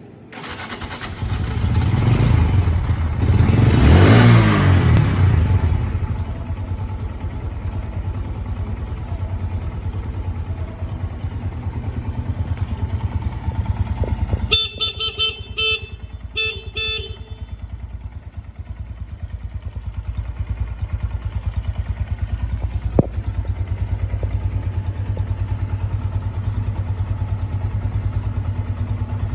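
2022 Honda Grom's single-cylinder four-stroke engine starting about a second in, revved a couple of times, then idling steadily. Partway through, a horn beeps several short times over the idle.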